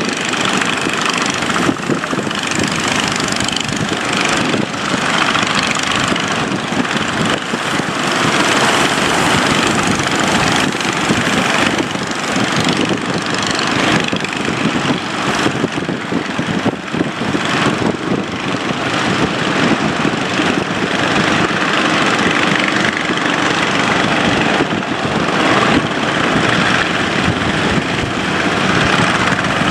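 A boat's engine running steadily and loudly under way, a continuous dense drone without pause.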